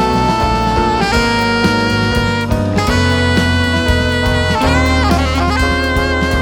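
Small jazz band playing live: saxophone holding long notes over bass, drums and piano, with one sax note bending down and wavering about five seconds in.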